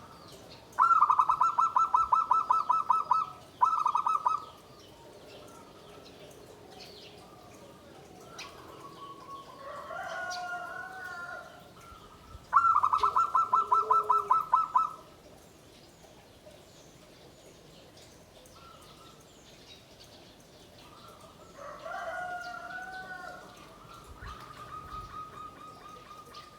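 Zebra dove (perkutut) calling: two loud, rapid trilled bursts of staccato coo notes, one near the start and one about halfway. Softer, wavering coos come between them, and a fainter trill comes near the end.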